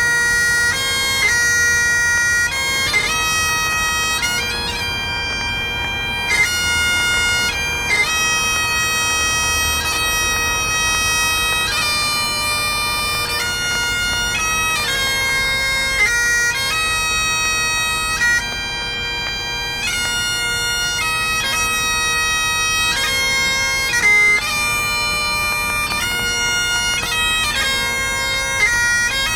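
Bagpipes playing a slow melody of long held notes over a steady, unbroken drone.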